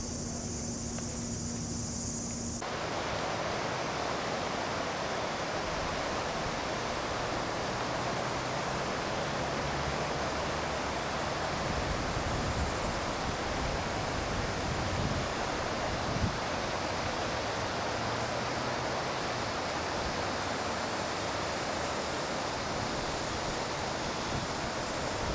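Flooded creek water rushing in a steady, dense roar. Before it, insects chirp for about the first two seconds, then cut off abruptly.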